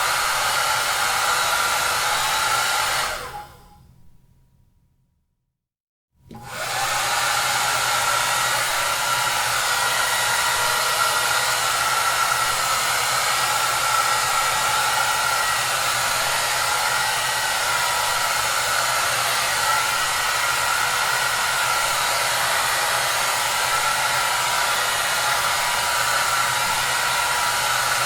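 Hair dryer running steadily, a rushing blow of air with a faint steady whine in it. About three seconds in it fades away to silence, and about two seconds later it comes back on suddenly and runs on steadily.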